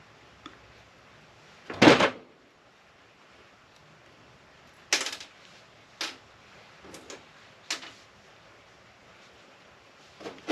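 Sharp knocks and clacks of hand tools and metal parts being handled while dismantling a UPS battery backup unit: one loud clack about two seconds in, then several lighter clicks and knocks spaced a second or so apart, and another pair of knocks near the end.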